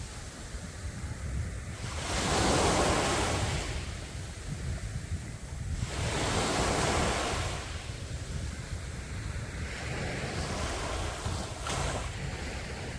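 Sea waves breaking and washing up a beach, the surf swelling about every four seconds, with wind rumbling on the microphone.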